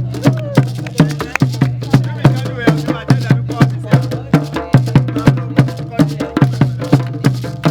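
Live West African hand-drum ensemble, including a talking drum, playing a fast, steady rhythm of several strikes a second, with some voices joining in.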